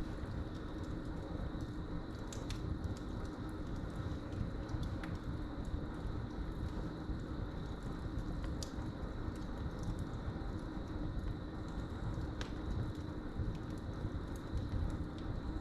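Wood fire crackling in a fireplace, with scattered sharp pops and snaps over a steady low noise from the burning logs. Crickets keep up a continuous high-pitched trill throughout.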